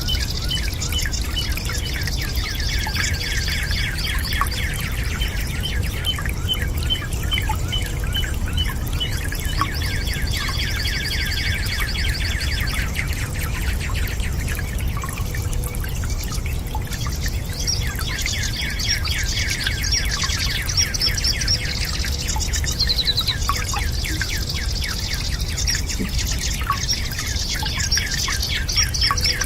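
Many birds chirping in rapid, continuous trills, thinning out for a few seconds midway, over a steady low rumble.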